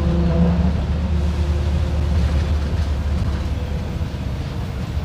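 Diesel engine of a Mercedes-Benz OF-1721 BlueTec 5 city bus running, a deep steady rumble that eases off slightly toward the end.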